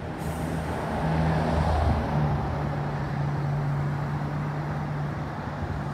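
A sports car's engine running at low revs as it moves off in slow city traffic: a steady low engine note over general traffic noise.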